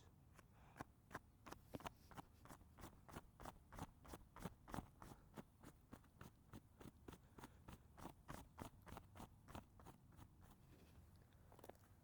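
Faint footsteps crunching on dry ground, a quick, even run of crunches that stops shortly before the end.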